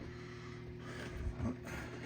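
A steady low hum with a few faint soft knocks partway through, like small objects being handled.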